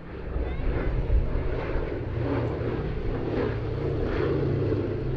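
Boeing B-17G Flying Fortress's four Wright Cyclone radial piston engines droning steadily as the bomber makes a display pass. The drone swells during the first second and then holds.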